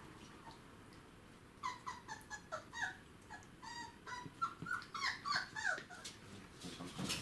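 Five-week-old border collie puppies whining, a quick string of short, high squeaks that begins after a quiet second and a half and then fades.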